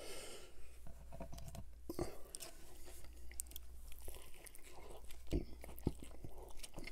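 Close-miked biting and chewing of breaded fried chicken: crunching of the crisp coating and wet mouth clicks, with a few sharper crunches about two seconds in and again near the end.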